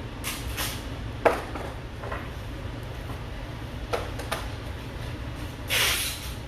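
A few sharp taps and clicks, the sharpest about a second in, and a short brushing scrape near the end, over a steady low hum. These are the handling sounds of oil painting: brush and tools against the canvas and palette.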